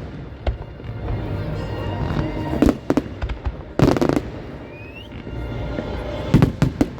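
Fireworks display: scattered bangs and crackles, with one loud burst about four seconds in followed by a short rising whistle.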